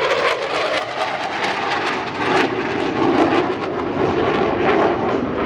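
Aircraft engine running steadily, a loud continuous noise with a rough crackle through it.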